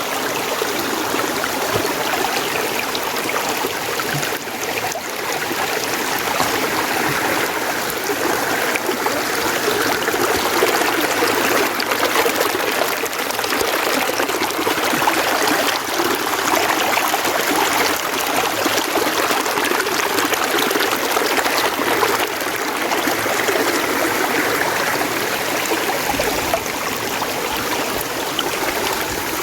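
Mountain stream water running steadily, an even rushing and trickling with no breaks.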